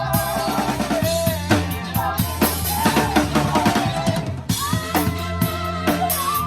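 Drum kit played with a live band: bass drum, snare and rimshot hits in a steady groove, close and prominent, under a band's sustained, wavering melody line.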